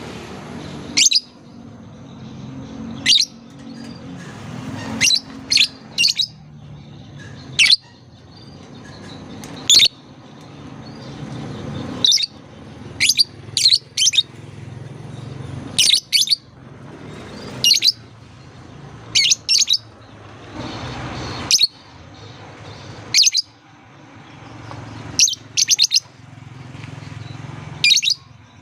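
Lovebird giving short, sharp, high-pitched chirps, one or two at a time every second or two, over a steady background hiss.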